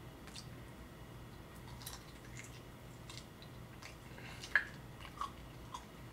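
A person chewing a mouthful of barbecue ribs, with faint wet mouth clicks and smacks; the sharpest click comes about four and a half seconds in, followed by two smaller ones. A steady low hum sits underneath.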